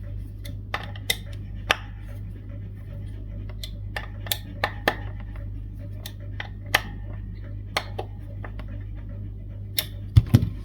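Light metallic clicks and taps from hand tools at work on a bass guitar, a dozen or so scattered irregularly, with a short low thump near the end. A steady low electrical hum runs underneath.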